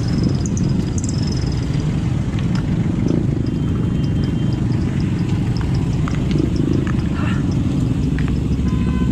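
Steady low rumble of vehicles crawling in heavy traffic, with faint quick ticking in the middle.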